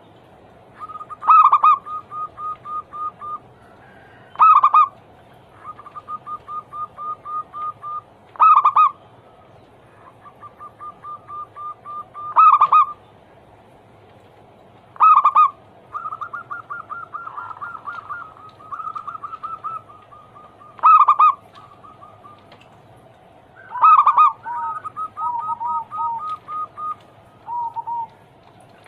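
Zebra doves (perkutut) cooing: seven loud ringing calls, each followed by a quick run of short, even coo notes at about four to five a second. Near the end a second, lower run of notes comes in alongside.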